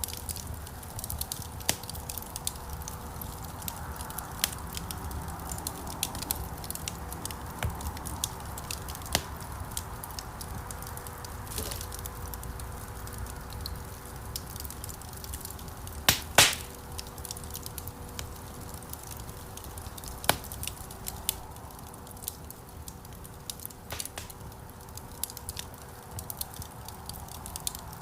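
Wood fire burning in a stone fireplace: a steady low flame rumble with irregular crackles and pops, and two louder pops close together about two-thirds of the way through.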